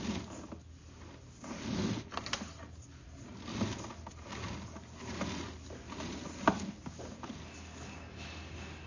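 Sewer inspection camera's push cable being fed into a drain line: irregular soft rubbing and knocking of the cable and reel, with scattered clicks, one sharp click about six and a half seconds in, over a faint steady hum.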